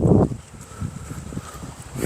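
A dull thump at the start, then irregular soft footsteps walking.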